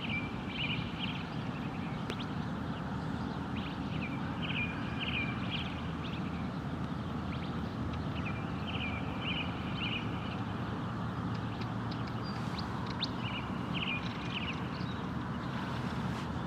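Birdsong: a songbird repeating a short phrase of quick chirps every few seconds. Under it runs a steady low background rumble.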